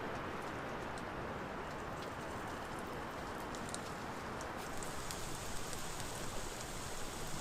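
Bacon grease sizzling in a pan. About two-thirds of the way in, a brighter, crackling sizzle starts, as of bannock dough going into the hot grease.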